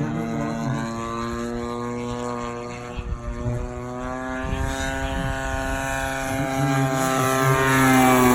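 DLE 60 single-cylinder two-stroke petrol engine of a large radio-controlled aerobatic plane running in flight, propeller buzzing at a steady pitch. Near the end the note rises and gets louder.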